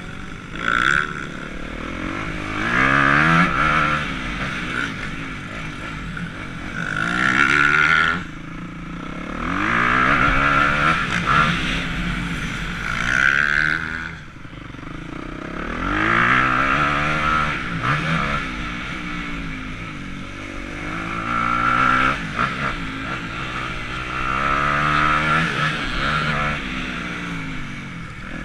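Motocross dirt bike engine under riding: the pitch climbs as the throttle opens, breaks at gear changes, then falls away as the rider comes off the throttle, over and over, with loud surges every few seconds.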